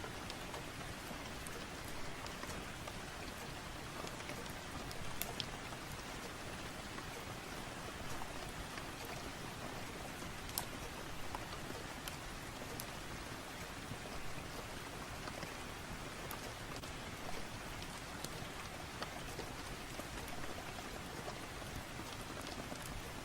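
Steady rain falling, an even hiss with scattered sharp ticks of drops throughout.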